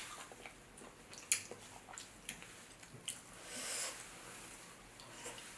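Quiet eating sounds: a few sharp clicks and cracks of crab-leg shell being picked apart, with chewing, and a short soft hiss a little past halfway.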